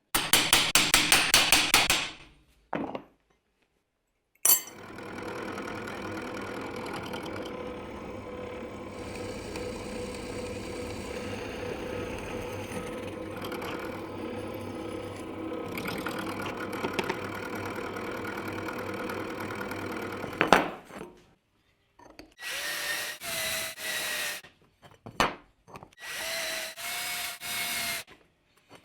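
Woodworking power tools at work on wood in several separate operations: a short loud burst of fast rapid strokes at the start, a long steady machine run of about sixteen seconds, then several short whining bursts near the end.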